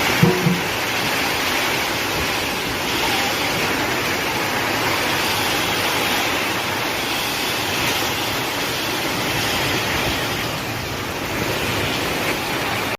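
Heavy rain pouring steadily during a storm, a continuous hiss of water with some wind. A short knock sounds a fraction of a second in.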